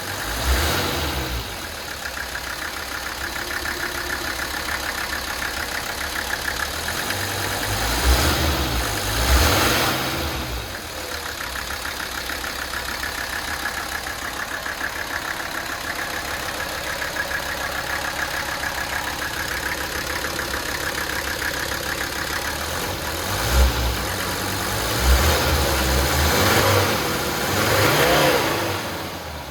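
Mercedes OM617.951 five-cylinder turbodiesel running at a steady idle. It is revved up briefly several times: twice around eight to ten seconds in, and again repeatedly in the last few seconds.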